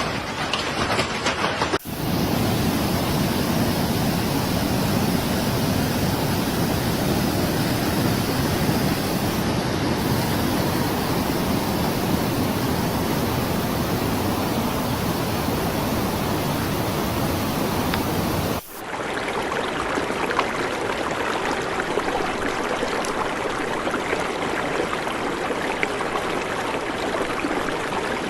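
Rushing floodwater: a steady, loud wash of noise from fast-running water, heard in separate clips that change abruptly about two seconds in and again about two-thirds of the way through.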